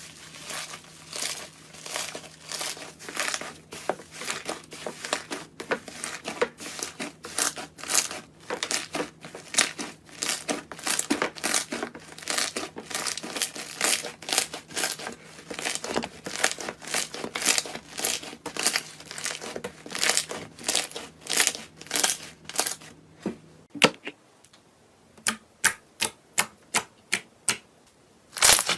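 Crisp crunching and crackling of crunchy material being crushed, many crackles close together. Near the end, after a break, a run of separate, even crunches at about two to three a second.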